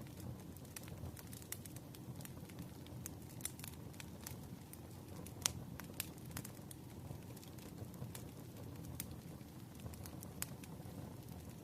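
Crackling fire ambience: irregular sharp pops and snaps, one louder pop about halfway through, over a steady low rushing noise of rain.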